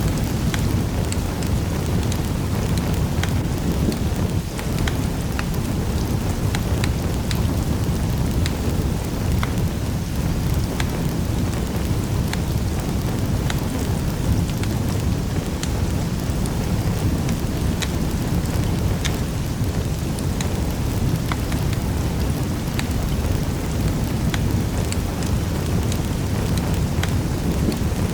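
Wood fire crackling in a fireplace: a steady low rumble of the flames with scattered sharp snaps and pops throughout.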